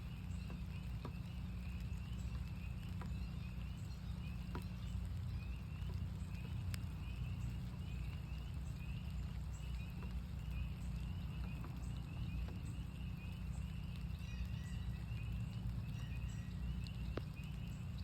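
A chorus of northern spring peepers, many short rising peeps overlapping continuously, with scattered raindrop ticks and a steady low rumble underneath.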